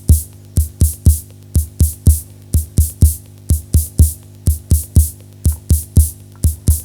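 Soviet 1970s 'Ritm' analog drum machine playing a repeating bass-drum pattern with doubled kicks, about three deep thumps a second, each with a hissy click on top.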